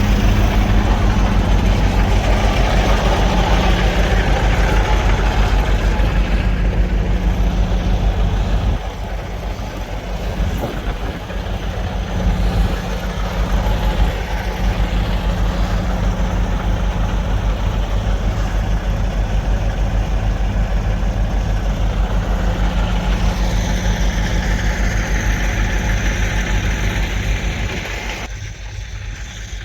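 Semi-truck's heavy diesel engine idling steadily with an even low throb, dropping somewhat in level about nine seconds in.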